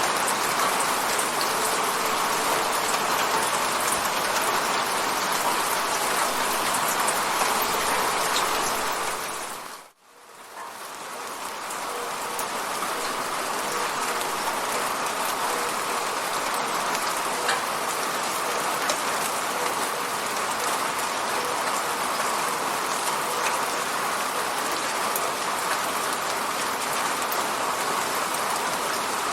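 Steady rain hitting a window, an even hiss with fine drop ticks. About ten seconds in it fades out to near silence, then fades back up over a few seconds.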